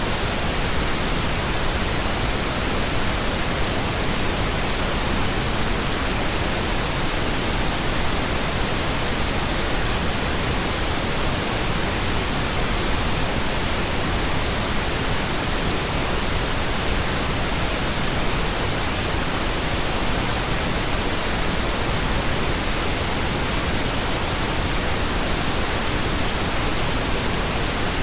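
Steady, unbroken pink noise: an even hiss across all frequencies that does not change.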